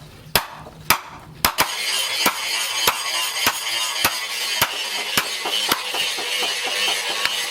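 Background music with sharp strikes about every half second, which in this knife-forging work are most likely a hammer striking steel. The music drops briefly in the first second and then carries on steadily under the strikes.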